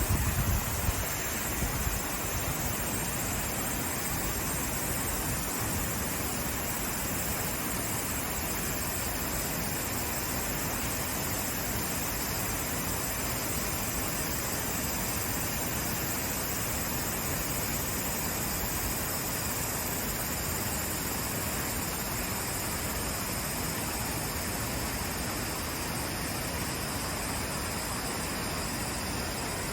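Waterfall: a steady, unbroken rush of falling water, with a few louder low bumps in the first couple of seconds.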